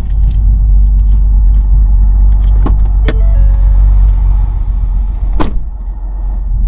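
Steady low rumble of a motor vehicle, with a few sharp clicks about midway through.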